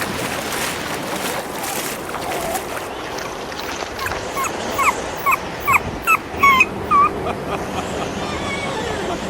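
A dog whimpering: a quick run of about eight short, high whines between about four and seven seconds in, over a steady rushing noise.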